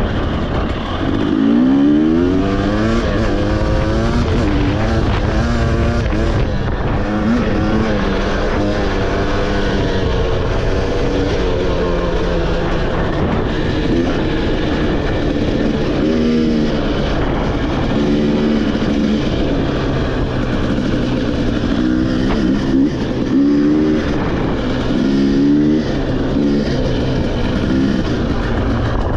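A motorcycle engine running while ridden along a trail, its pitch rising and falling repeatedly as the throttle is opened and closed.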